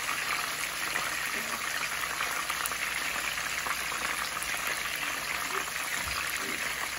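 Marinated chicken pieces shallow-frying in hot oil in a nonstick pan: a steady sizzle with dense crackling.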